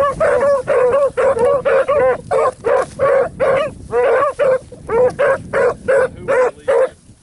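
A pack of hunting dogs barking steadily on a trail, about three short barks a second, the barking breaking off near the end.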